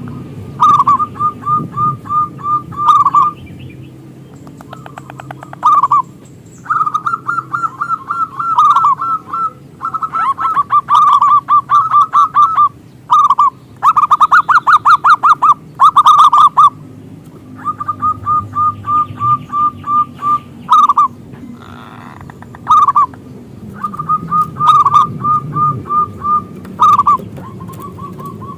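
Zebra dove (perkutut) singing phrase after phrase. Each phrase is a quick string of short staccato notes that ends on a longer, louder note.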